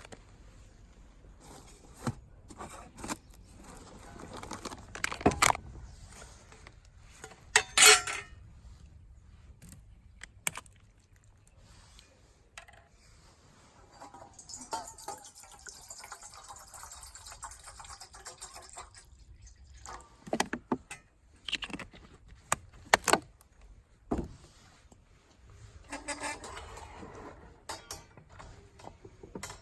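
Objects being handled by hand: scattered clicks, knocks and rustles, loudest about 5 and 8 seconds in, with a stretch of soft hissing rustle in the middle.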